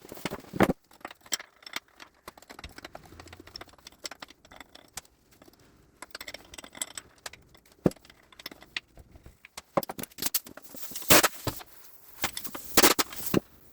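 Hand tools undoing the nuts on a Gardner 2LW diesel's crankcase end housing: irregular metallic clicks and clinks of steel on steel, with a couple of louder runs of rapid clicking near the end.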